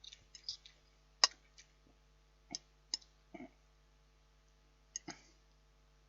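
Someone eating a microwave chilli and rice: a handful of short, scattered clicks and taps, the sharpest about a second in, over faint steady room hum.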